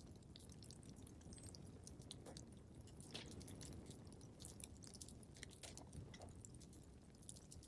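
Faint crackling wood fire in a fireplace: irregular sharp pops and snaps, several a second, over a steady low rumble of the flames.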